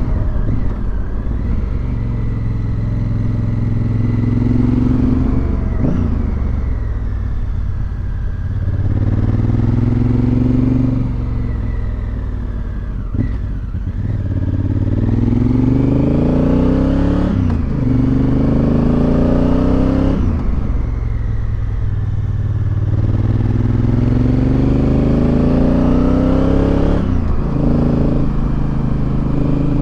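Motorcycle engine running under way. Its pitch climbs repeatedly as it accelerates and drops sharply several times.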